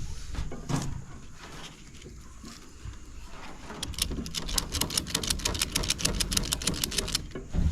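Knocks of scrap metal being handled, then a ratchet clicking rapidly and evenly, about ten clicks a second, for around three seconds, as a load is tightened or pulled up.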